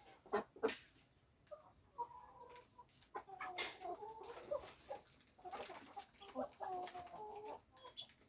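Chickens clucking faintly, a run of short broken calls, with two sharp clicks just after the start.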